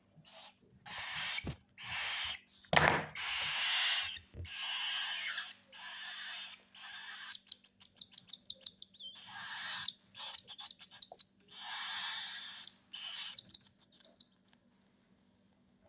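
Baby cockatiels' raspy, hissing begging calls, repeated in bursts of about a second each, with quick runs of sharp ticking chirps in the middle: the noise chicks make while being hand-fed.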